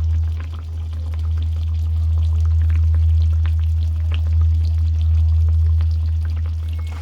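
Pork hock frying in a pan, sizzling with scattered crackles and pops over a steady low hum.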